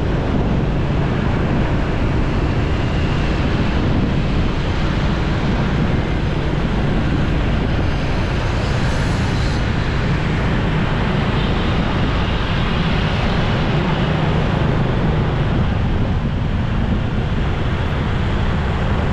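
Wind rushing over the microphone of a moving motorcycle, with engine and road rumble beneath it, steady and loud. A short hiss comes about nine seconds in.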